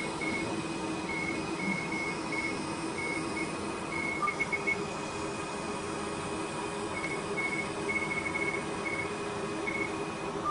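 Fraxel Repair CO2 laser beeping in runs of short, high pips as it fires across the skin, pausing and resuming, over a steady hum from the treatment equipment.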